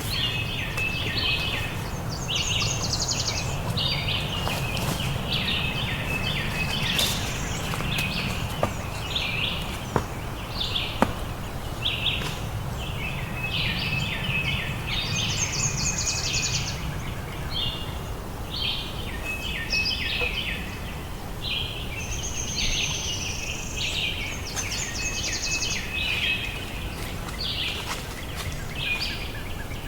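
Many birds chirping and trilling in short, repeated calls without pause, over a steady low rumble, with a few sharp clicks about a third of the way through.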